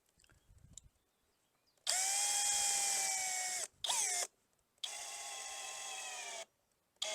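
Power drill driving self-drilling screws into a plastic lawn mower wheel: a steady whine for about two seconds, a short blip that speeds up and slows, then a quieter run of nearly two seconds.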